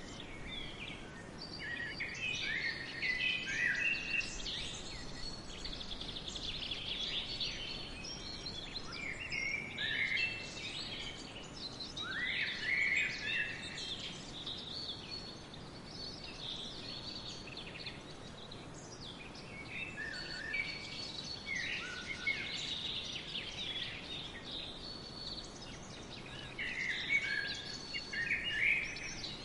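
Several songbirds chirping and singing in short overlapping phrases throughout, over a faint steady background hiss.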